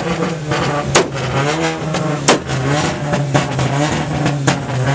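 Car engine revved up and dropped back repeatedly, with sharp exhaust pops about a second in, a little past halfway and near the end.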